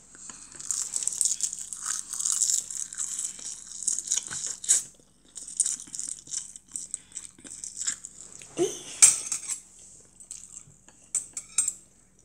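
Close-up eating sounds: a mouth chewing rice wrapped in roasted seaweed (gim) with a crackly, clicky sound, and chopsticks clicking against the dishes. There is a louder knock about nine seconds in.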